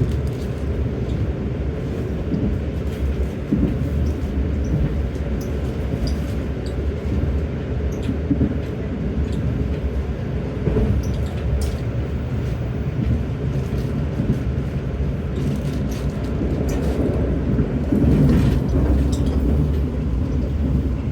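Indonesian passenger train running on the rails, a steady low rumble of wheels and track with scattered light clicks, growing a little louder near the end.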